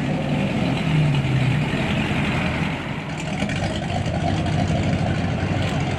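A car engine running with a deep rumble. It swells briefly about a second in, then settles to a steady run.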